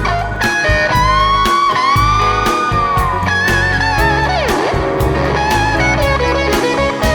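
Blues-rock band playing an instrumental passage: an electric guitar lead with long bent notes over bass and drums. About four and a half seconds in, the guitar pitch swoops down and back up.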